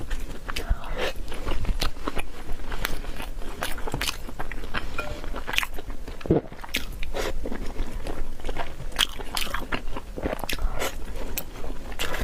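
Crunchy food being bitten and chewed: a close, irregular run of crisp crunches and crackles.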